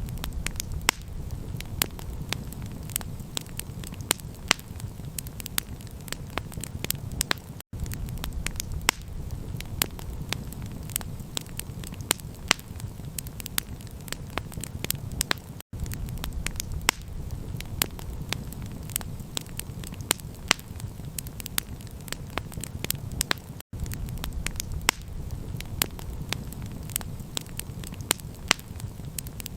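Campfire crackling, with many sharp pops and snaps over a steady low rumble. The sound drops out for an instant about every eight seconds, where the recording loops.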